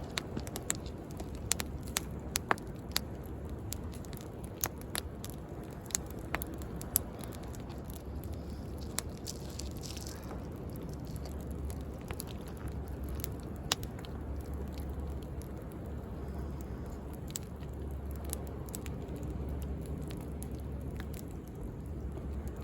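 Wood bonfire crackling, with sharp pops and snaps that come most often in the first seven seconds, over a steady wash of sea waves.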